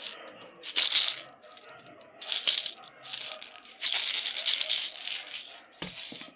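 Plastic pop tubes being stretched and squashed, their ribbed sides crackling in a fast rattly zip. It comes in about six bursts, the longest lasting over a second about four seconds in.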